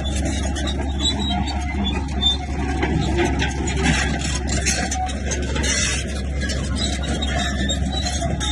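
Heavy diesel earthmoving machinery, a bulldozer, running steadily with a constant low engine drone.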